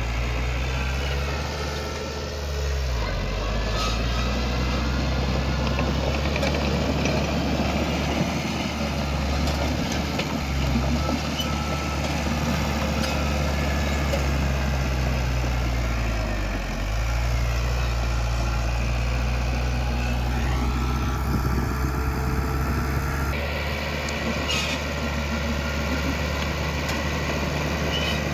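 Heavy diesel engine of earthmoving machinery running steadily under a rough mechanical clatter, its pitch dipping briefly and recovering twice: about two seconds in and again around sixteen seconds in.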